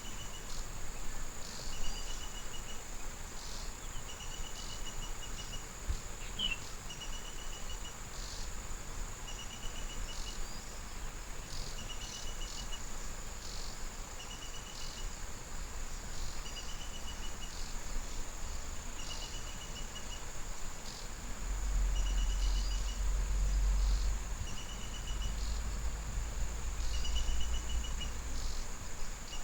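Insects chirring: a steady high-pitched drone with short pulsed chirps repeating about every second and a half. A low rumble comes in for several seconds near the end.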